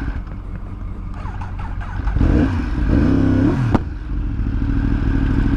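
2015 Yamaha R1's inline-four engine with Yoshimura exhaust running. Its pitch rises and falls about two seconds in, then it settles to a steady idle. A sharp click sounds just before the idle begins.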